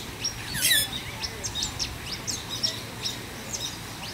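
Birds chirping: a steady scatter of short, high chirps from several birds, with one louder, harsher call about two-thirds of a second in.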